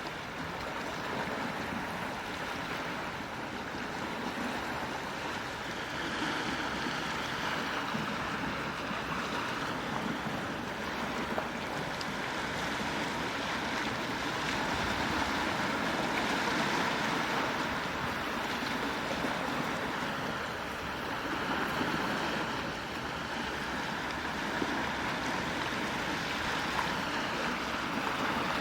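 Quiet sea waves washing ashore: a steady rush that swells and eases every several seconds.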